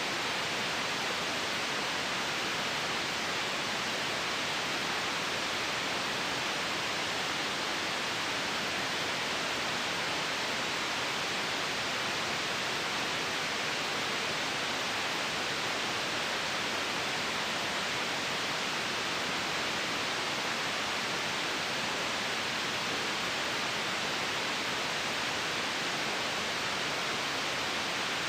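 Steady white noise: an even, unbroken hiss with no changes in level or pitch.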